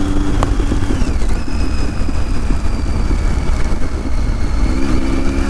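Motorcycle on the move: engine running under a heavy, steady low rumble of wind and road noise, with a faint high whine that drops in pitch about a second in.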